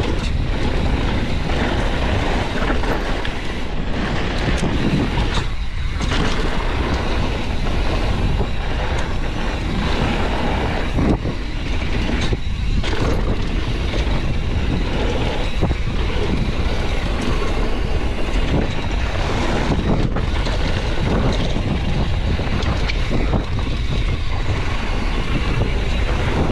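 Steady loud rushing noise of wind buffeting the microphone, with brief dips about six and twelve seconds in.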